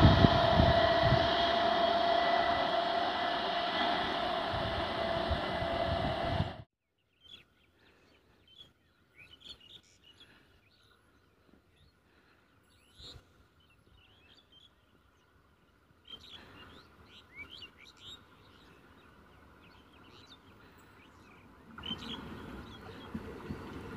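Running noise of an electric multiple unit local train, a steady hum with a held tone, falling in level and cut off abruptly about six and a half seconds in. Then near quiet with birds chirping now and then. Near the end a second EMU's rumble rises as it approaches.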